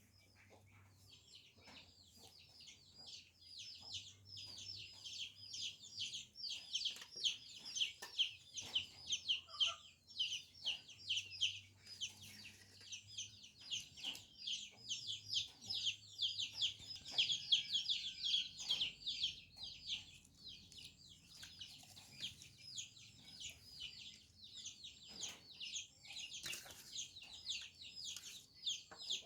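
Birds chirping in a dense, rapid stream of short high calls, several a second, with scattered light knocks.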